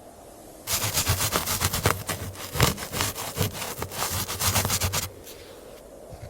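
Wood being cut with a hand saw in quick back-and-forth strokes, starting about a second in and stopping about five seconds in.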